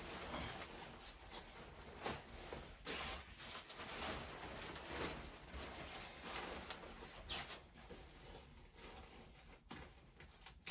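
Intermittent rustling and handling noises, with louder brushing sounds about three seconds in and again about seven seconds in.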